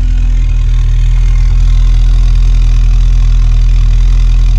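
1986 VW Golf 2's 1.8 GX four-cylinder petrol engine idling steadily and evenly, heard close to the exhaust tailpipe. The rough running it had is cured, and it is purring.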